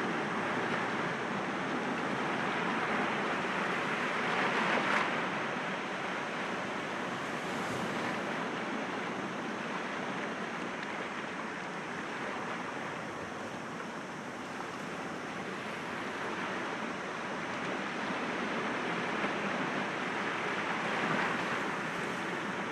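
Sea waves breaking gently against rocks: a steady wash of surf that swells louder about four seconds in and again near the end.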